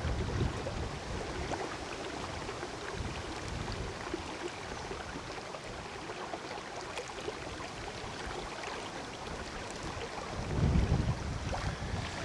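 Wind buffeting the microphone in low gusts, with a strong gust about ten seconds in, over the steady rush of river water.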